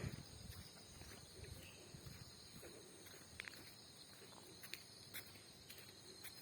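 Faint steady high-pitched chirring of insects, with light footsteps and a few soft clicks.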